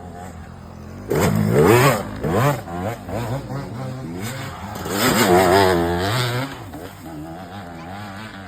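Small dirt bike engine revving, its pitch climbing and falling. There are two louder bursts of throttle, one about a second in and another around five seconds in, and it runs quieter between them.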